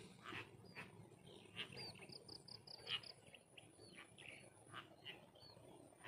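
Small birds chirping and calling over and over in short sharp notes, some with a quick upward flick, and a fast run of about six high notes about two seconds in. A faint steady high-pitched tone sits underneath.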